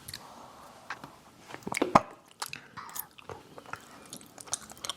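Close-up eating sounds: chewing and biting food, with scattered short wet clicks and smacks, the loudest about two seconds in.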